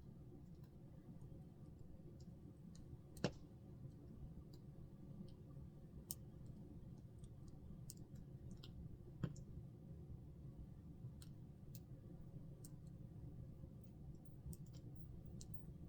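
Campfire crackling faintly: scattered small snaps, with two louder pops about three seconds in and about nine seconds in, over a low steady rumble.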